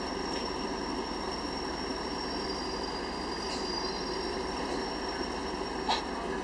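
Steady running rumble of a passenger train heard from inside the coach, with a faint high, thin steady whine above it. A single sharp click sounds about six seconds in.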